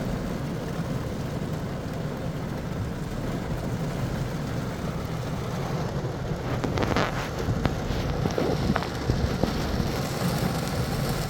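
Heavy rain pounding on a car's roof and windshield, heard from inside the cabin as a steady hiss over a low rumble. About six and a half seconds in comes a run of sharper knocks lasting a few seconds.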